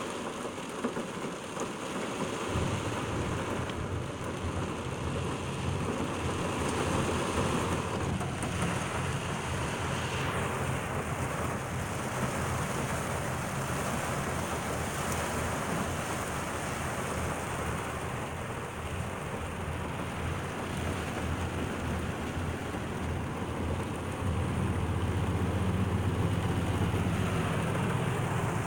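Heavy storm rain falling steadily, with a low rumble underneath that comes in a few seconds in and grows louder near the end.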